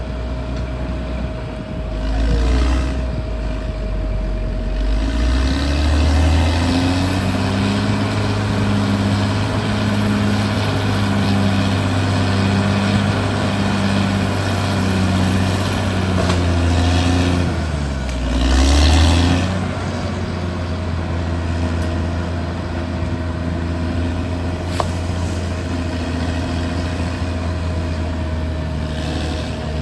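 Caterpillar D6R XL bulldozer's diesel engine running under load. It revs up about five seconds in, drops briefly near the eighteen-second mark, then picks back up, with a steady thin whine throughout.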